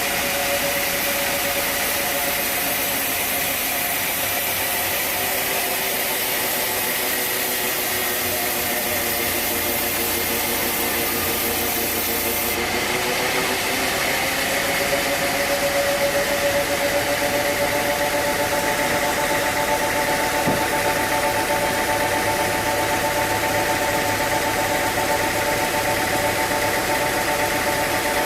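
Engine-driven sawmill machinery running steadily. Its hum shifts up slightly in pitch about halfway through.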